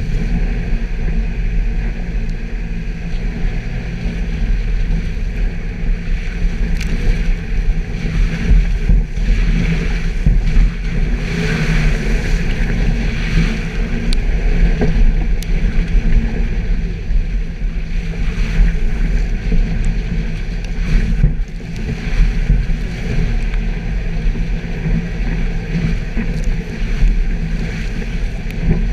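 Suzuki Jimny's engine running steadily off-road, with wind noise and occasional knocks and rattles from the bumpy ground.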